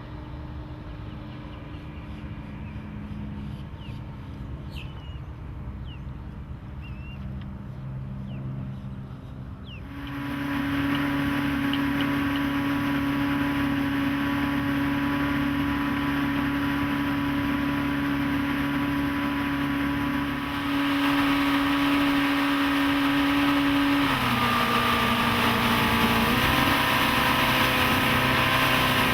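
Evinrude 90 HP V4 outboard motor running steadily on a small center-console boat. About a third of the way through, the sound steps up abruptly to a louder, steady hum. Later a rush of water and wind noise joins it, and near the end the engine note drops slightly in pitch.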